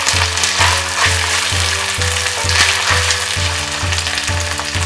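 Chopped onions, garlic-ginger paste and green chillies sizzling as they fry in oil in a stainless steel pan, stirred with a silicone spatula, over background music with a steady bass beat about twice a second.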